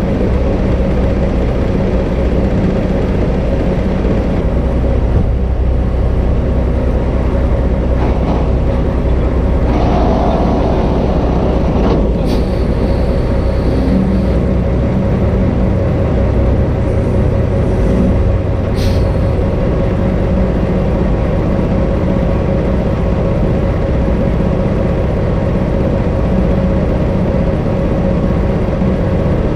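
Heavy diesel engine running steadily with a deep rumble, with two brief high hisses near the middle.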